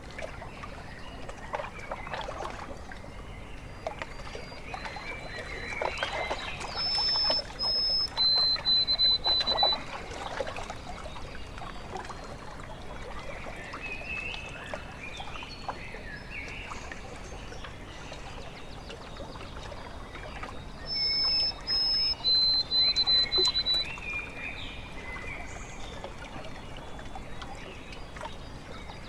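Small waves lapping and trickling at a lake shore, with birds singing. One bird's phrase of clear, steady, high whistled notes is the loudest sound; it comes twice, about a quarter of the way in and again about three quarters in.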